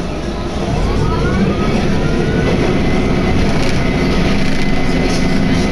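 Single-car diesel train running at speed, heard from inside the carriage: a steady rumble of wheels and engine that grows louder about a second in, with a rising whine followed by a thin steady high tone.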